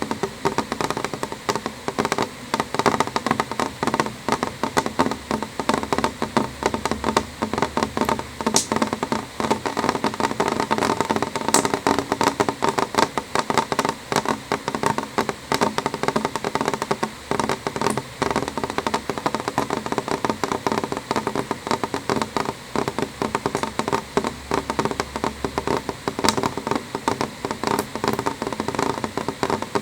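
Rain on a window pane, many drops tapping on the glass in a dense, steady stream of small clicks.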